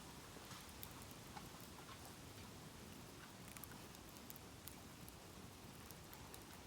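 Bamboo bonfire burning faintly, with scattered sharp crackles and ticks over a steady hiss.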